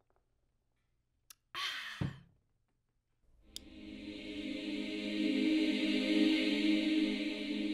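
A short breathy exhale, like a sigh of relief, after gulping wine, then a sustained choir chord sung without instruments swells in about three seconds later and holds, fading slightly near the end.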